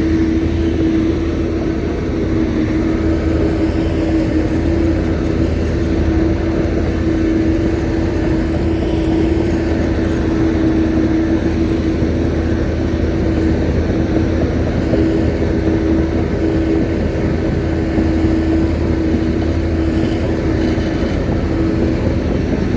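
Shantui bulldozer's diesel engine running steadily at a constant pitch, with no change in speed.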